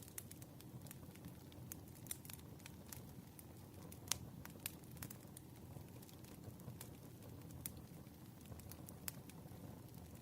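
Wood fire burning, with a low steady rumble of flames and irregular sharp crackles and pops, the loudest about four seconds in.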